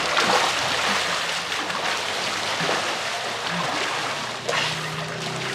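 Steady splashing and rushing of water as people swim a race.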